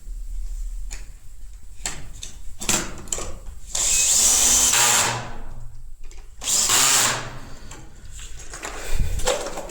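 Handheld power tool, drill-like, run in two short bursts: one of about a second and a half a few seconds in, then a shorter one. Scattered knocks and handling sounds fall around them.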